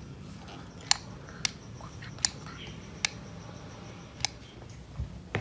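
A series of about five short, sharp clicks at irregular intervals over a low steady hum.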